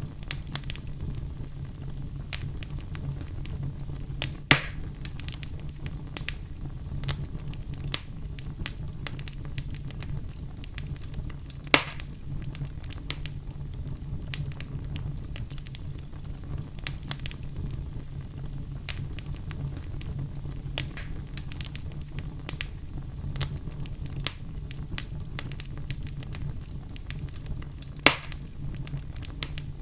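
Wood fire crackling in a fireplace: a steady low rumble of flames under a constant scatter of small crackles, with three loud pops spread through.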